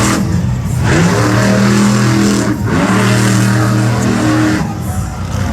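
Monster truck engine revving hard in two long pulls, with a brief dip about two and a half seconds in, then easing off near the end.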